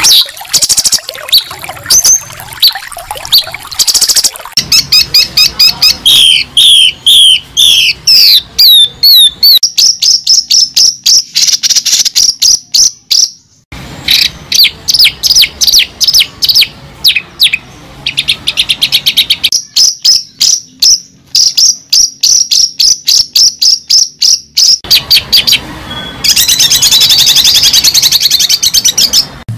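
A bird singing loudly and close: a long, varied run of quick chirps, falling notes and fast trills, with two short pauses, one about halfway through and one near the end.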